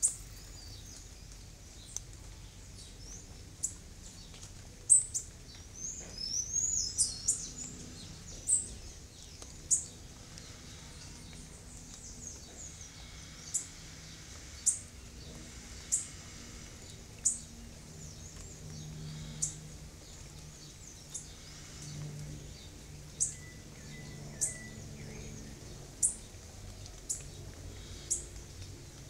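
Small birds giving short, high chirps every second or two, with a brief warbling song about six to seven seconds in, over a faint steady background.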